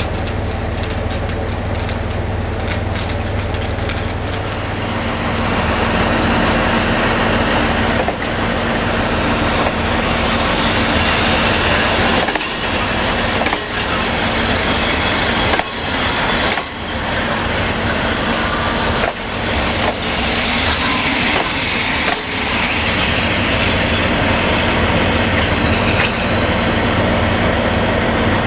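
Railway passenger coaches rolling past at close range: a steady rumble of steel wheels on the rails, with a clack now and then as the wheels cross rail joints.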